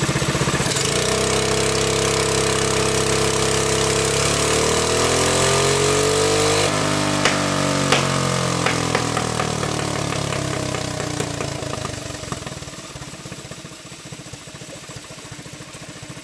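Honda GX200 single-cylinder four-stroke engine running on a test dynamometer: its pitch climbs for a few seconds, then falls as it slows, with a few sharp clicks, and the sound winds down and fades over the last few seconds.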